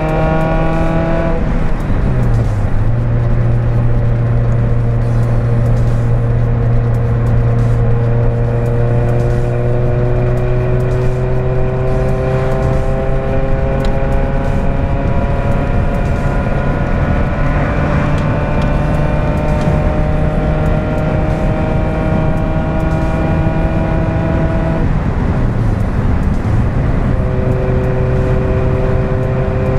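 Renault Clio 1.2's four-cylinder petrol engine with a broken exhaust, heard from inside the cabin while driving. The engine note climbs slowly under acceleration, dropping at a gear change about a second in and again about five seconds before the end.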